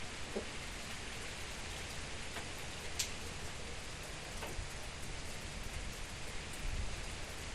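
Steady rain falling, with scattered sharp drips; one loud drop strikes about three seconds in.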